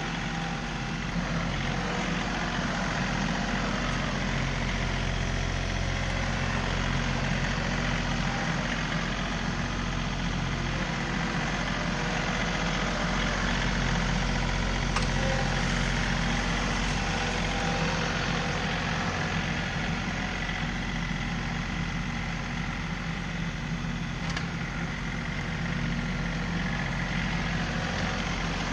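John Deere 3038E compact tractor's three-cylinder diesel engine running steadily at a constant speed.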